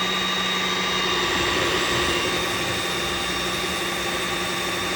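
Riccar R70 wet-dry floor washer running its self-cleaning cycle: the suction motor and spinning brush rolls run steadily with a whine while it sprays cleaning water onto the rollers. A low hum drops out just over a second in.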